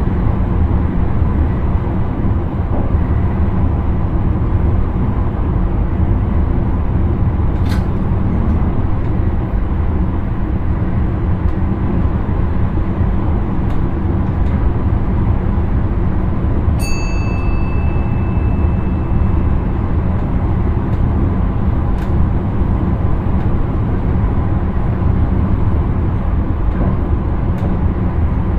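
Steady running rumble of an intercity train heard from inside the driver's cab, wheels on the rails at speed. About halfway through, a single high beep rings out in the cab and fades over a couple of seconds. There are a couple of faint clicks besides.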